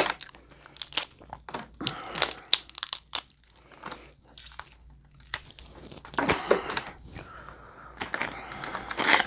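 Close-up eating of seafood-boil crab legs: irregular clusters of sharp shell cracks and crunches mixed with wet chewing, loudest at the very start and again near the end.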